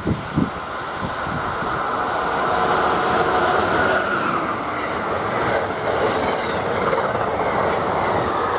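Electric passenger train passing at speed: a steady rush of wheels on rail, with faint rising whines in the second half.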